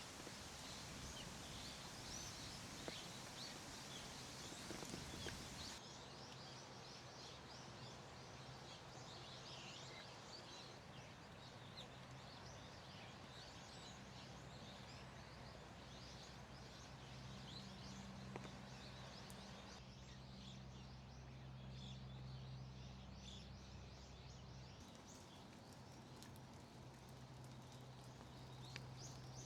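Many small birds chirping and twittering, faint, over a low steady hum; the background shifts abruptly a few times.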